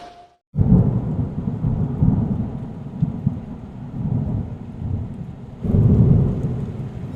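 Low, uneven rumble of wind buffeting the microphone, starting after a brief silence and swelling louder for about a second and a half near the end.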